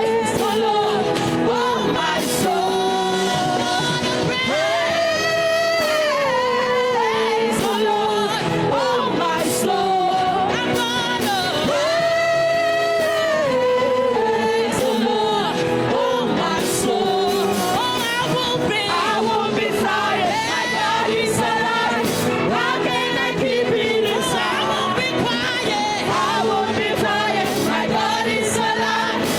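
Live gospel singing: a lead voice holding long notes and sliding between pitches over full band accompaniment.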